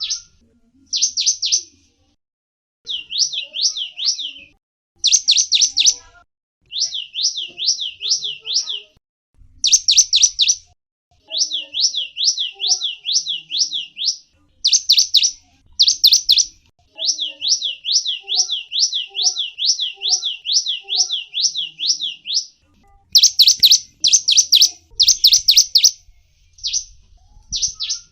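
Small songbird known in Indonesia as the gelatik wingko singing: repeated runs of high, quick sweeping chirps, several notes a second, in bursts broken by short pauses.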